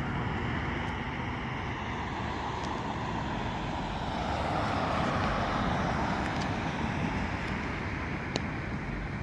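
Road traffic noise: a steady rumble of vehicles that swells about halfway through, as one passes close by, then eases.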